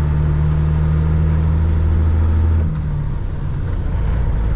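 Caterpillar 3406E inline-six diesel of a Freightliner FLD120 running with a steady low drone; about two and a half seconds in the engine note breaks off, drops a little in level and settles into a rougher, lower rumble.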